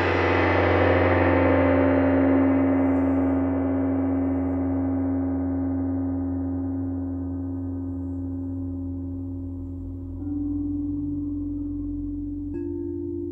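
A gong's wash dying away slowly after a strike, its high overtones fading first and leaving a low hum and a steady ringing tone. A new clear ringing tone joins about ten seconds in, and another near the end.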